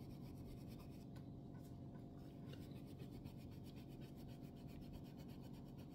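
Faint, steady rubbing as a straight razor's steel blade is buffed near the tip to remove a stain mark.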